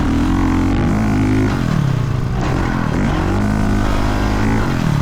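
Dirt bike engine revving as the throttle is worked. Its pitch drops about a second and a half in, climbs again from about two and a half seconds, and falls off near the end.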